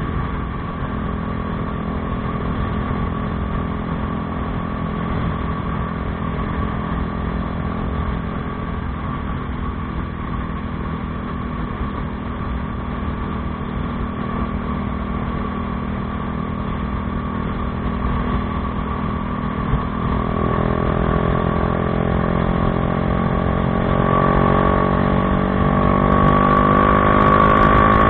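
Bajaj Dominar 400's single-cylinder engine through an Akrapovič exhaust, holding steady revs. About two-thirds of the way in, the revs start climbing slowly and it grows louder.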